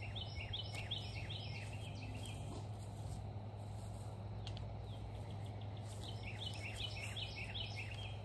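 A songbird singing two quick runs of repeated high notes about six seconds apart, over a steady low hum.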